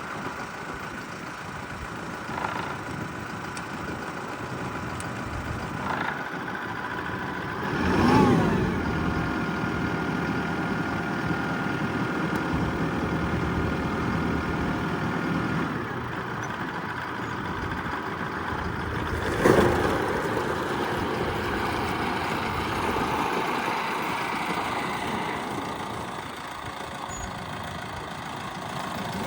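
Kubota M5-091 tractor's four-cylinder diesel engine running, swelling to a loud peak about eight seconds in and settling again, with another sudden loud moment about twenty seconds in.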